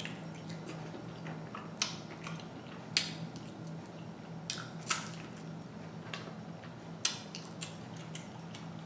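Close-up mouth sounds of someone chewing a bite of sausage, with several sharp wet lip smacks and finger-sucking smacks spread through, over a low steady hum.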